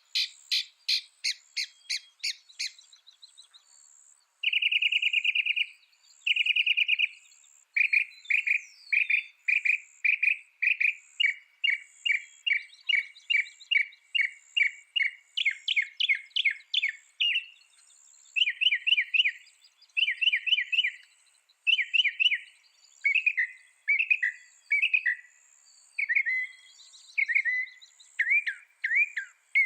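Mockingbird singing, repeating each phrase several times before switching to the next: a quick run of sharp notes, two long buzzy notes after a short pause, then a long series of short notes at about two a second that changes to falling, slurred notes.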